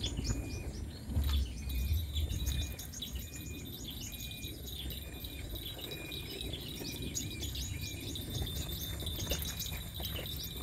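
Birds chirping: rapid, evenly repeated short high chirps, about four or five a second, with a slower repeating call beneath and a low rumble about a second in.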